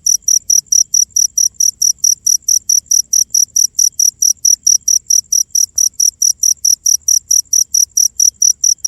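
A cricket chirping steadily in a fast, even rhythm of about five high-pitched chirps a second.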